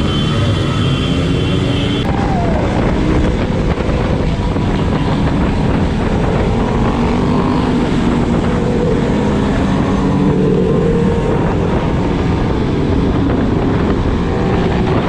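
Motorcycle engines running, their pitch rising and falling, over a steady rushing noise.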